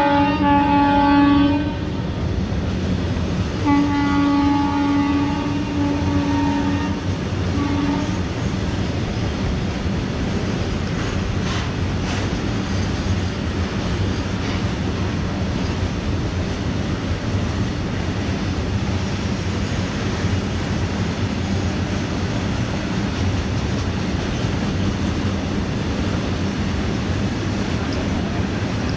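Indian Railways electric locomotive horn: a long blast at the start, a second long blast about four seconds in and a short one near eight seconds. After that, the steady rumble and wheel clatter of a freight train of tank wagons rolling past.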